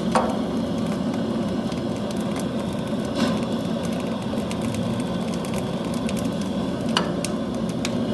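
Kindling of cardboard and bark crackling in the firebox of a newly built fireplace as it is first lit, with a steady hiss, rapid small crackles and a few louder snaps near the start, about three seconds in and about seven seconds in.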